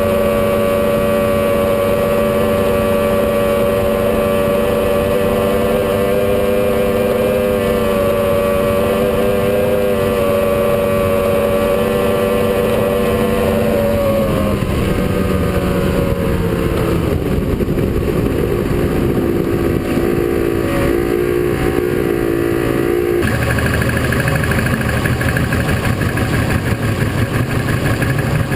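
Powerboat engine running steadily at speed, then throttled back about halfway through, its pitch falling, and settling to a low idle rumble near the end.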